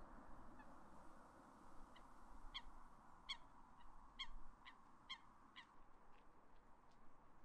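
Faint, distant birds calling: a string of about ten short, slightly falling calls over several seconds, over a low outdoor background hum.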